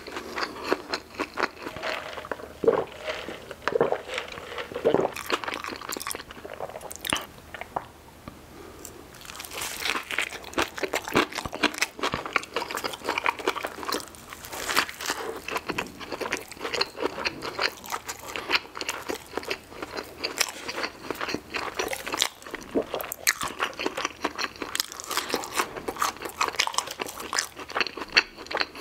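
Close-miked chewing and crunching of a crispy fried chicken sandwich in a soft bun, with wet mouth sounds. The crunching eases off around eight seconds in, then turns denser again with a fresh bite.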